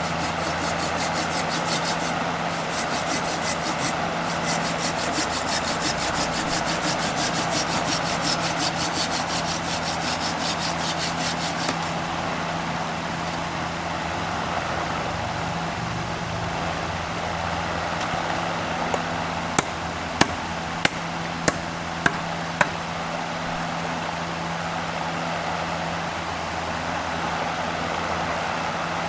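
Oak being worked by hand: a fast, even scraping or rasping over a steady machine hum, stopping after about twelve seconds. About two thirds of the way in come six sharp taps, roughly half a second apart.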